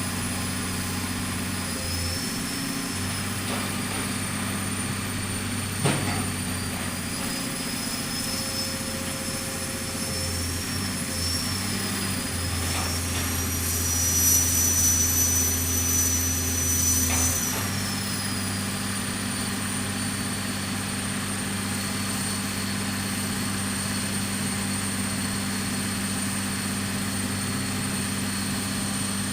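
Engine of a pile-driving machine running steadily. It gets louder with a higher whine for a few seconds near the middle, and there is a single sharp knock about six seconds in.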